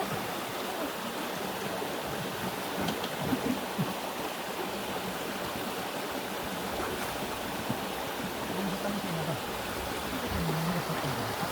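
Steady rushing noise, like flowing water, with faint wavering tones in the last few seconds.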